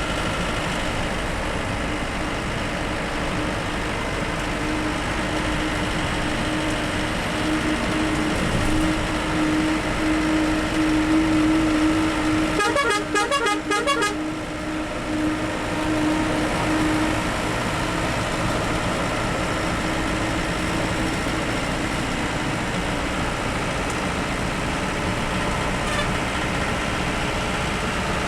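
Bus driving on the road, its engine and road noise running steadily with a hum. About halfway through, a vehicle horn sounds in a rapid string of short pulses for just over a second.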